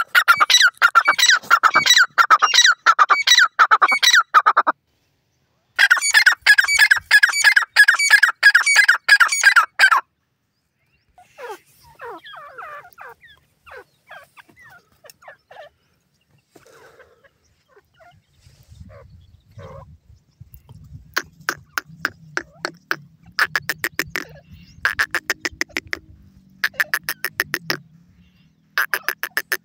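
Teetar (francolin) calling in runs of rapidly repeated harsh notes, about two to three a second, in several bursts with short pauses between. Softer scattered chirps fill the middle stretch. A low steady hum runs under the later calls.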